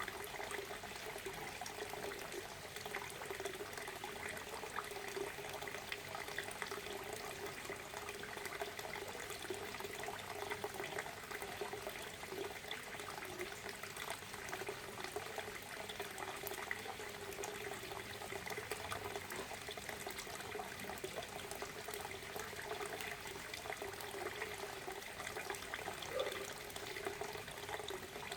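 Waterfall: water falling and splashing steadily, with no pauses or changes.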